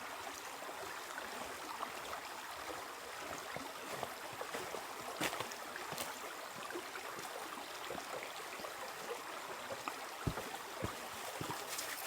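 Steady rush of running water, with scattered light clicks and two soft low knocks a little past ten seconds in.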